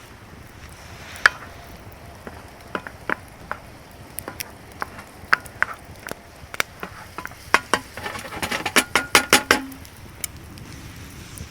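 A metal utensil clinking against cookware: scattered light clicks, then about eight seconds in a quick run of ringing clinks, about six a second, for under two seconds.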